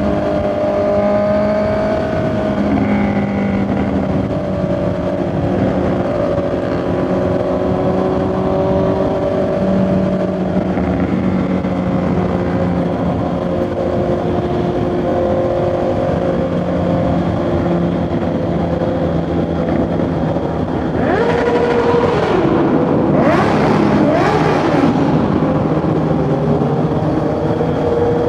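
Honda CB650R's inline-four engine and exhaust running at riding speed, the note rising and falling gently with throttle and gear changes. About three quarters through it grows louder, with the pitch dipping and climbing quickly.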